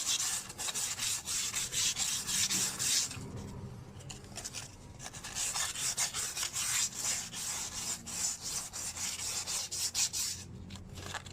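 Fine sandpaper rubbed by hand in quick back-and-forth strokes over the glazed inner braking surface of a Kawasaki KH125's rear brake drum, roughening it so the new shoes won't squeal. The strokes ease off for a moment about three seconds in, then pick up again.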